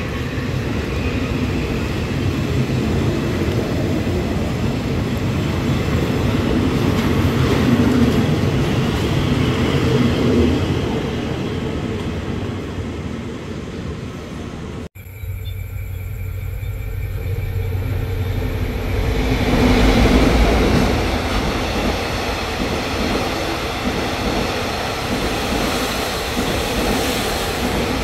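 Thai railway passenger train rolling past a station platform, its wheels rumbling on the rails, swelling and then fading as it leaves. After an abrupt cut halfway through, another train passes through the station, its rumble building up over a few seconds and then holding steady.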